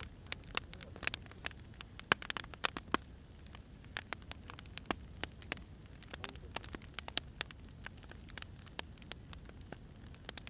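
Wood fire burning, with irregular sharp crackles and pops from the logs over a steady low rumble and hiss; the pops come thickest in the first three seconds.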